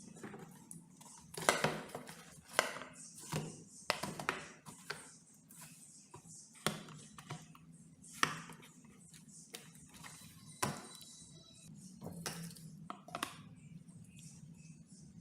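Metal lamp parts and hand tools clinking, knocking and scraping in irregular strokes as the lamp is worked on, with a brief ringing note a little past the middle.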